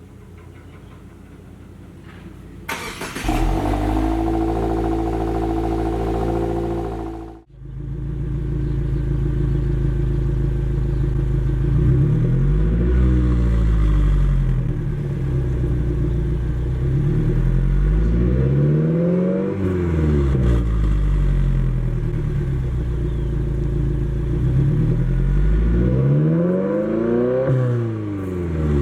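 A 2022+ Subaru WRX's turbocharged 2.4-litre flat-four running through an AWE Touring Edition cat-back exhaust. It starts up about three seconds in and holds a steady high cold-start idle, then settles into an idle and is revved three times, each rev rising and falling in pitch.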